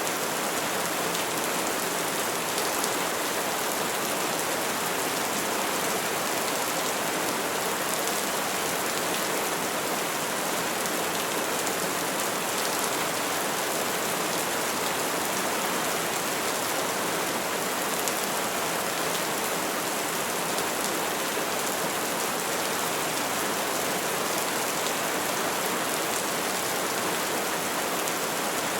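Steady rainfall on trees, an even hiss of drops with faint scattered patters, no thunder.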